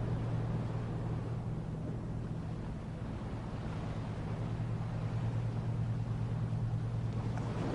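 A steady low hum, like a motor running, over a wash of surf and wind noise on the microphone.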